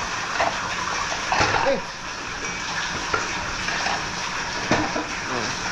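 Steady, even hiss of heavy rain pouring down, with a few brief murmured words over it.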